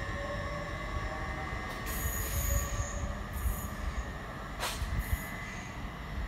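GWR Intercity Express Train moving away along the line: a steady low rumble with squealing wheels, and high hissing squeals that come and go. A single sharp clank comes about four and a half seconds in.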